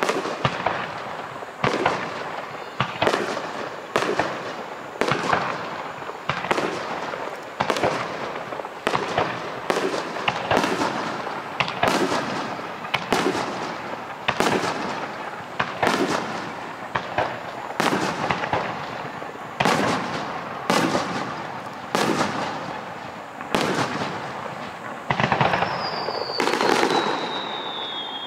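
Aerial fireworks shells bursting in quick succession, about one sharp bang a second, each trailing off before the next. Near the end a whistle falling in pitch sounds over the bangs.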